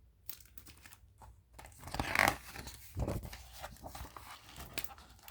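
Paper rustling and sliding as a page of a picture book is turned, with louder swishes about two and three seconds in.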